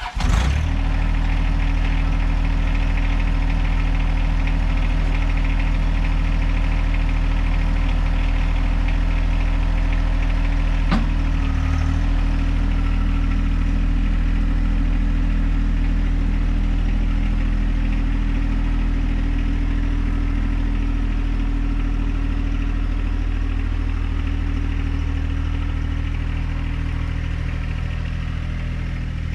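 John Deere 1025R compact tractor's three-cylinder diesel engine catching at the start and then idling steadily, with a single sharp click about eleven seconds in.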